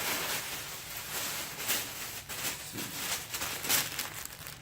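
Tissue paper in a shoe box rustling and crinkling as it is handled, a run of irregular crackly rustles.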